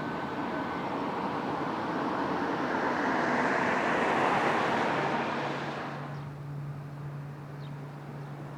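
Jet airliner passing, its engine noise swelling to a peak about four seconds in and then falling away quickly. A steady low hum comes in about five seconds in.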